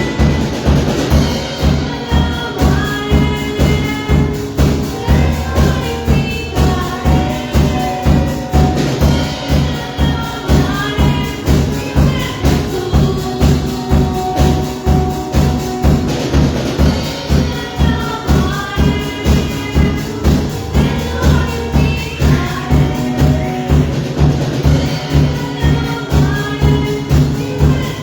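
Band music with a steady beat, bass, melodic instrument lines and tambourine, played without spoken words.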